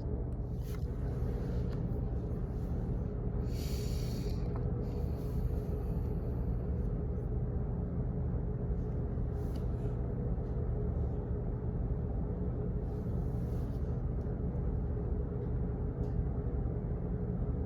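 Office background noise: a steady low hum, with a few faint clicks and brief soft rustling sounds scattered through it.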